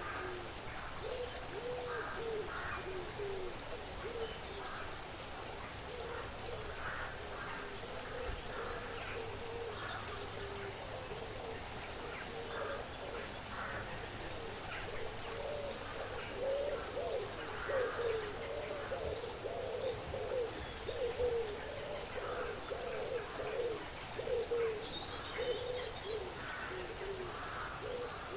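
Woodland birds calling: many short, low repeated calls overlapping one another, busiest in the second half, with scattered high chirps above them.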